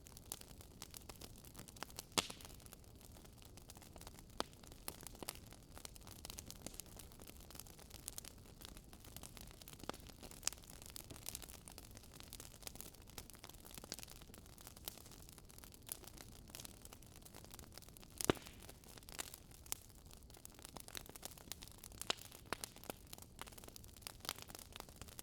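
Burning firewood crackling in a fireplace: irregular sharp snaps and pops over a faint steady hiss, with louder pops about two seconds in and again near eighteen seconds.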